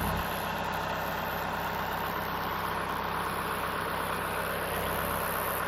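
An engine idling steadily, its low hum dropping a little just after the start.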